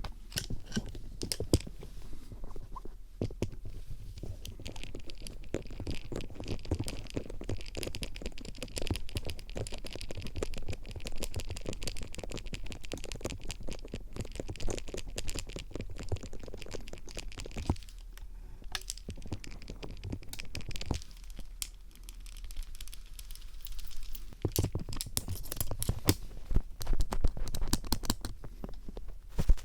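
Phillips (star) screwdriver tip scraping and scratching against the microphone in mock ear-cleaning ASMR: a dense crackle of small clicks and scrapes, with brief lulls and busier strokes near the end.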